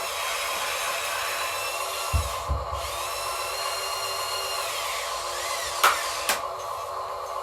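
Radio-controlled construction models' electric motors whining: a steady whine under a higher motor whine that rises, holds and falls in the middle, with two low thumps about two seconds in and two sharp clicks near six seconds.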